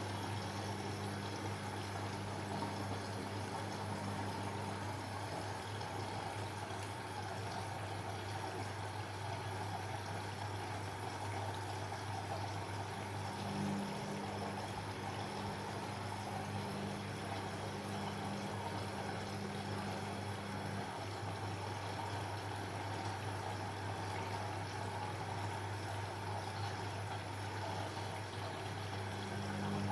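Washing machine running with water rushing through it over a steady low hum, with a slightly higher hum that fades in and out.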